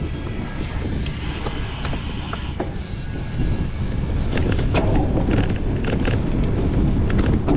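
Cyclocross bike being raced over rough ground: drivetrain and frame clattering and rattling with many quick clicks over a low rumble, getting louder about three seconds in.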